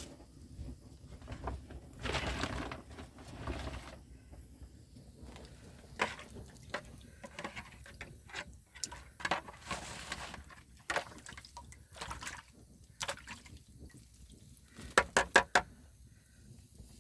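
Liquid being poured or splashed, with scattered clicks and knocks of handling. A quick run of four sharp knocks near the end is the loudest sound.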